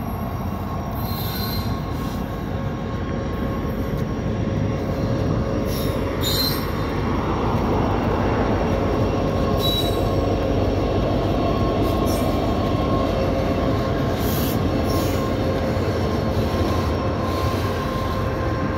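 Norfolk Southern freight train rolling past, locomotive then tank cars: steady noise of wheels on rail with a constant whining tone, and a few brief high-pitched squeals.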